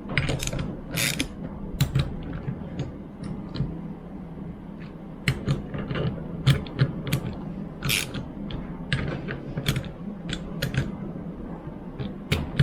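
Irregular metal clicks and ratcheting from hand tools as the bolts of a rebuilt power steering pump are tightened a little at a time, over a steady low hum.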